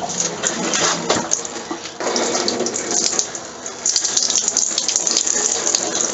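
A person urinating into a porta-potty's holding tank: a steady stream of liquid splashing, briefly easing off about two seconds in.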